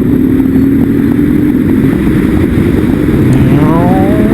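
Motorcycle engine running loud over road noise, its pitch rising near the end as it accelerates.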